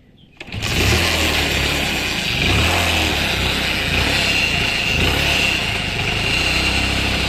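Motorcycle engine starting up about half a second in and running steadily with an abnormal mechanical noise and a high whine over the engine note. It is a fault noise after an engine rebuild, which the mechanic found partly goes away when the clutch is pulled.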